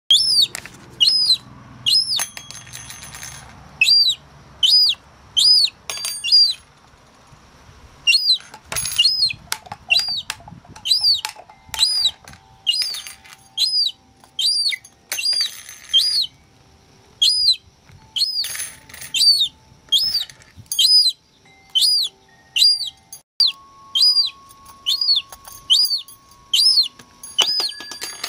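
A young gull chick peeping over and over: short, high-pitched calls that each rise and fall, about one or two a second, with some brief rustling between them.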